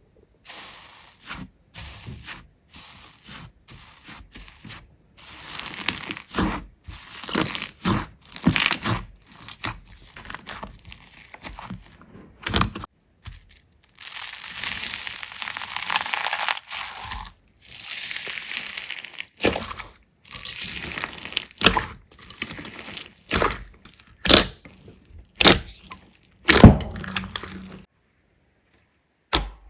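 Slime being squeezed, pressed and poked by hand: a run of short clicking, squishing bursts separated by brief silences, with a longer continuous stretch in the middle and the sharpest, loudest clicks near the end.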